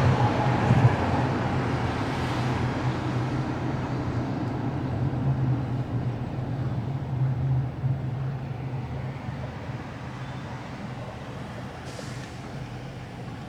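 A large engine running with a steady low hum over rushing noise, slowly getting quieter.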